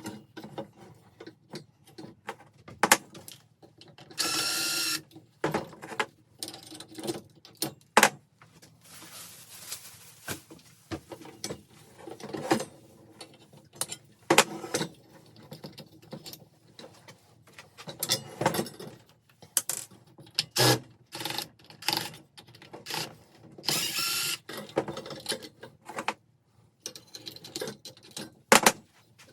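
Hand tools working on a ceiling fan's metal parts: a long run of separate clicks, clanks and knocks as pieces are unscrewed and handled. Twice, about four seconds in and again about twenty-four seconds in, a short higher-pitched whir lasting about a second.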